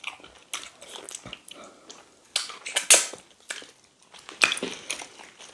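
Close-up wet chewing and mouth smacking of pounded yam and meat in slimy ogbono soup eaten by hand, in irregular clicks with a few louder smacks in the middle and near the end.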